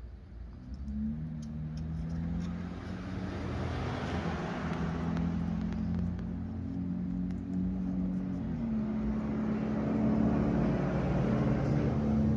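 A motor vehicle's engine running, its low hum shifting pitch up and down, with a rushing noise that swells about four seconds in and again near the end.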